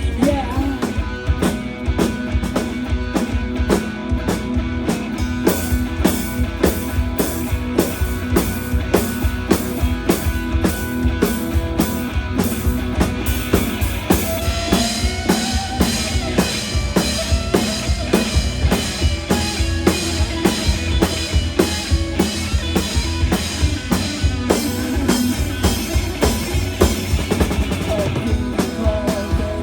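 Live rock band playing without vocals, a six-year-old drummer keeping a steady beat on a drum kit under the pitched instruments. The sound gets brighter about halfway through.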